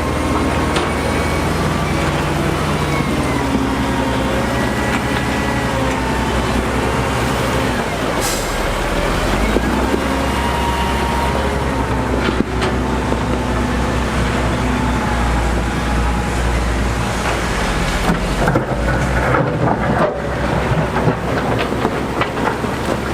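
Heavy diesel construction machinery running steadily, with thin squealing tones over the engine and a heavier low rumble in the middle stretch.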